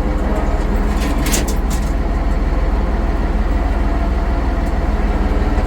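International 1066 farm tractor's diesel engine running steadily while skidding a log, with a short metallic clatter about a second and a half in.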